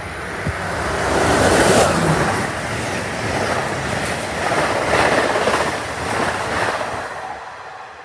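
Amtrak train passing through the station at speed: a loud rushing of wheels on rail that builds over the first two seconds, surges and fades near the end.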